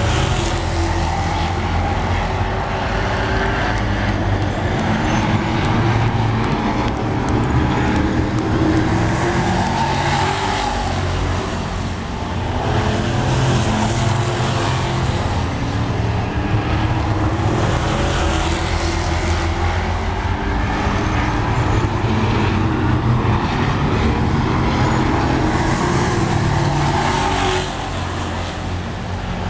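Pro Truck race trucks' engines running at racing speed around a short oval track, swelling and fading every few seconds as the pack goes past.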